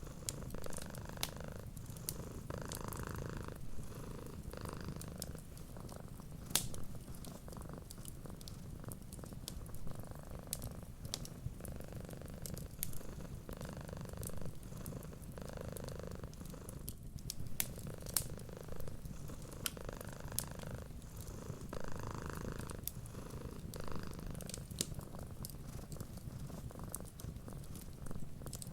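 A cat purring steadily and close, swelling and easing with each breath about every two seconds. Over it, the scattered sharp pops and crackles of a wood fire burning in a fireplace.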